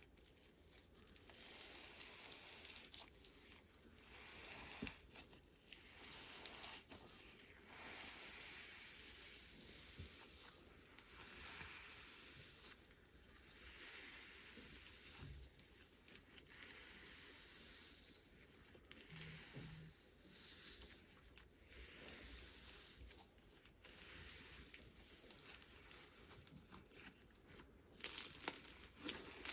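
Slime being stretched, squeezed and pulled apart by hand close to the microphone: soft crackling and tearing noises that swell and fade every second or two.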